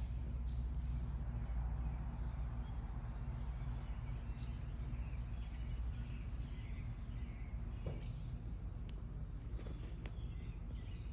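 Outdoor ambience: a steady low rumble with faint bird chirps, strongest in the second half.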